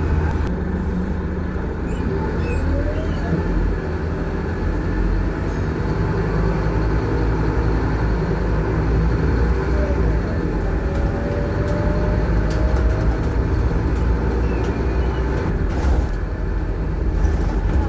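Scania K230UB single-deck bus under way, heard from inside the cabin: a steady diesel engine drone with road and body rumble.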